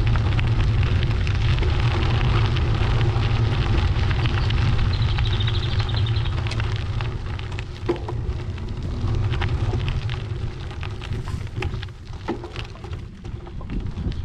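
Wind buffeting the microphone of a camera riding on a moving bicycle: a steady low rumble with crackling tyre-and-road noise and scattered small clicks and rattles. The rumble eases off somewhat about eight seconds in.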